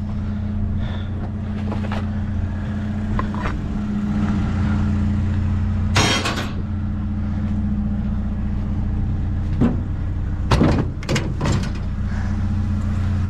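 Truck engine running steadily, with a few sharp knocks or rattles about halfway through and again several times near the end.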